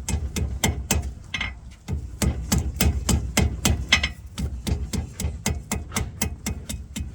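Blacksmith's hand hammer striking metal on an anvil in a quick, steady rhythm of about four blows a second, with a short break about a second and a half in, while forging a small hummingbird.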